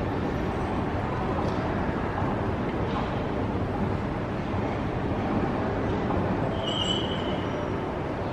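Steady low rumble of a vehicle in motion, with one short high squeal about seven seconds in.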